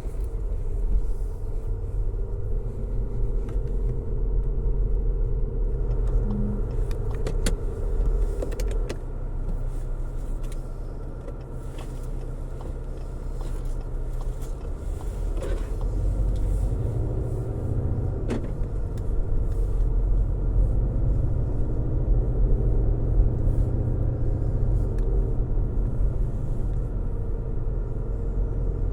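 Car interior road noise while driving: a steady low rumble of tyres and engine, easing a little and building again, with a few faint clicks and ticks now and then.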